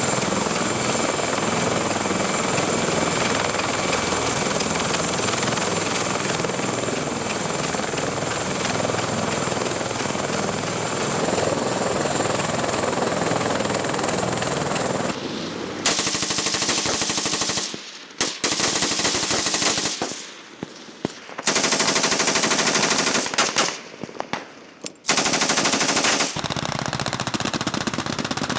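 .50-calibre Browning heavy machine gun firing from a helicopter door mount: a long sustained stretch of rapid fire, then, about halfway through, four or so separate bursts with short gaps between them, then steady fire again near the end.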